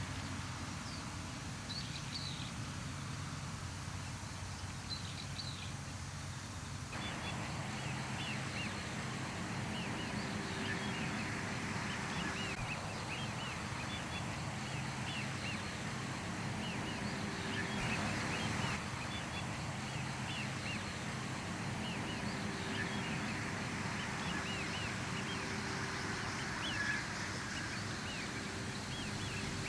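Outdoor ambience: many short, high chirps several times a second over a low, steady hum. The chirps start about seven seconds in.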